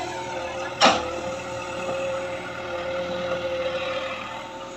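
JCB digger's engine running steadily while digging, with one loud sharp knock about a second in.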